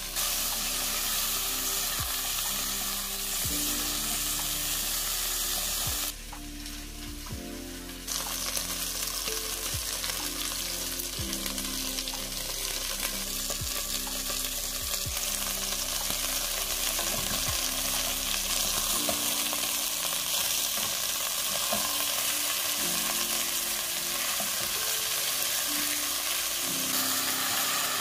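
Chicken pieces sizzling and spitting as they sear in hot oil in a stainless steel pot, with background music underneath. The sizzle drops away briefly about six seconds in, then comes back.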